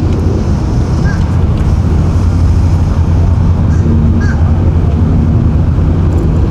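An engine running steadily at low revs, with wind buffeting the microphone.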